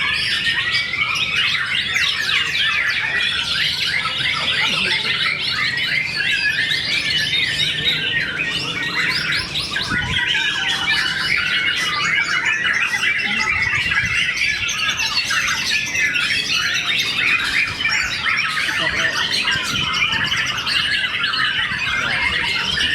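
Many songbirds singing at once in a dense, unbroken chorus of rapid chirps, trills and squawks, as at a songbird contest.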